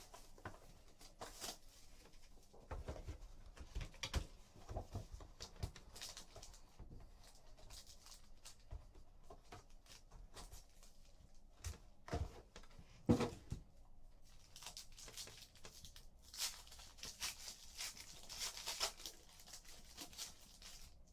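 Trading-card packs being torn open and their wrappers crinkled, with cards handled between them: faint scattered rustles and light knocks, the sharpest about halfway through and a longer stretch of rustling tearing near the end.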